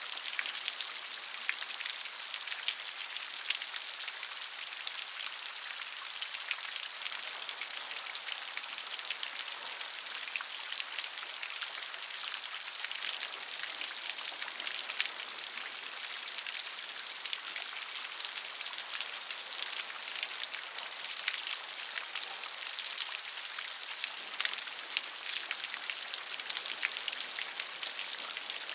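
Steady rain falling, a dense patter of many small drop ticks over an even hiss.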